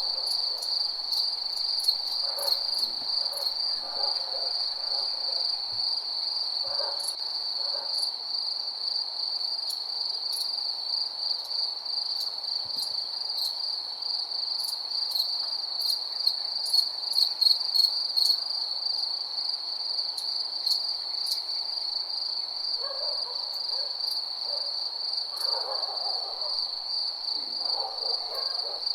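Crickets chirring in one steady, unbroken high trill, with faint lower calls now and then, in the first few seconds and again near the end.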